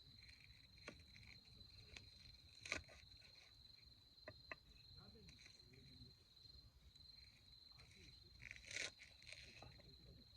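Faint steady high-pitched trill of an autumn insect such as a cricket, with scattered soft clicks and taps and a sharper click about three seconds in and a short cluster near the end.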